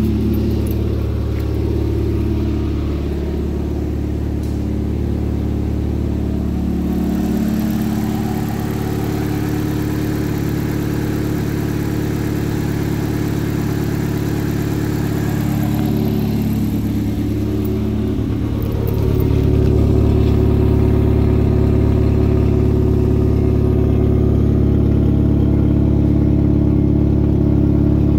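A 2006 Chevy Malibu's 2.2 L Ecotec inline four-cylinder engine idling steadily. It gets somewhat louder about two-thirds of the way through.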